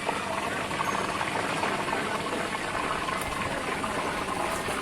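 Underground spring water rushing beneath the ground: a steady roar like an underground river.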